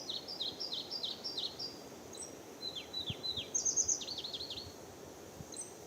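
A songbird singing: quick series of short, high notes, each sliding downward, repeated in several phrases over a faint outdoor hiss.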